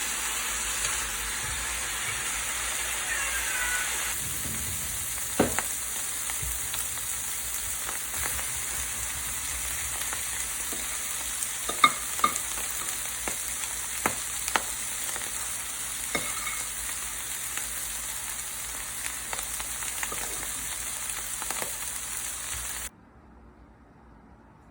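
Food sizzling in a frying pan, a steady hiss with a utensil clicking and scraping against the pan now and then; the sizzle stops abruptly near the end.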